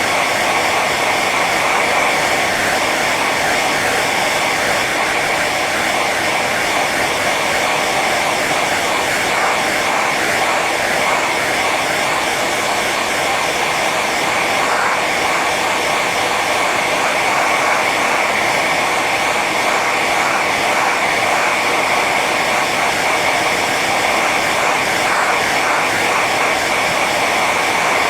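Hair dryer running steadily on its high setting: a constant rush of air with a whine.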